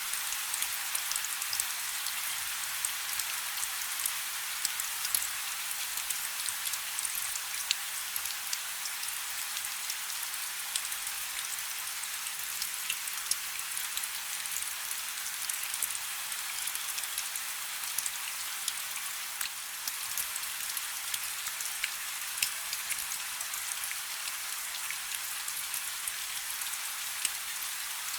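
Light rain falling steadily: an even hiss with many small drop ticks scattered through it.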